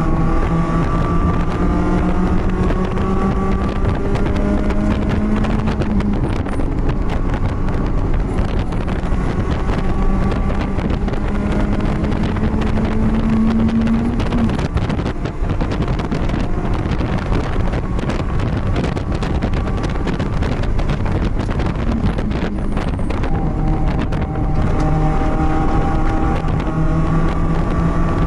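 BMW race car engine heard onboard while lapping a circuit, with wind noise on the microphone. The engine note climbs slowly under load and drops sharply about six seconds in and again about halfway through. A rougher, noisier stretch follows before the note steadies again near the end.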